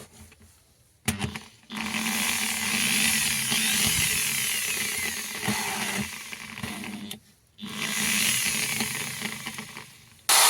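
Electric drill running in two long bursts: about two seconds in for some five seconds, then again after a short stop. A sharp click comes about a second in, before the first run.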